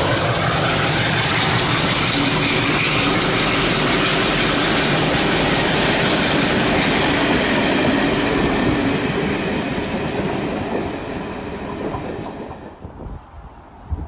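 A train passing close by, its wheel and rail noise loud and steady, then fading away over the last couple of seconds.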